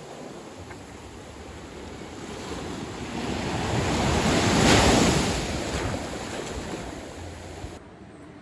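Sea wave breaking and washing up the beach, the rush of surf swelling to a peak about halfway through and then drawing back.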